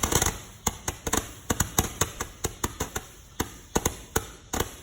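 A small consumer firework going off in a rapid run of sharp pops, several a second at uneven spacing, thinning out and stopping near the end.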